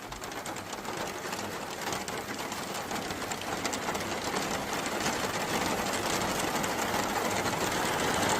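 Heavy rain falling steadily, a dense rapid patter that grows gradually louder.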